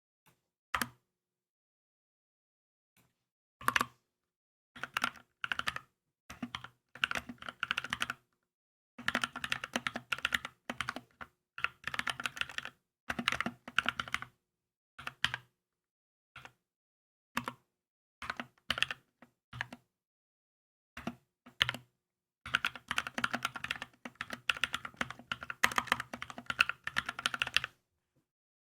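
Keychron K2 mechanical keyboard being typed on in bursts of quick keystrokes, with short pauses between runs and a long, fast run near the end.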